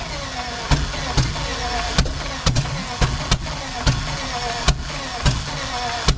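Rolls-Royce Meteor V12 engine being cranked over, with irregular sharp pops from cylinders firing now and then, roughly every half second, while it fails to catch and run.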